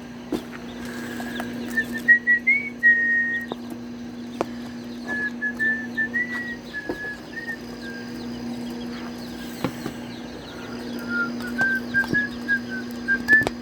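A person whistling a tune in short held notes that step up and down, over a steady low hum, with faint high chirps and scattered clicks in the background.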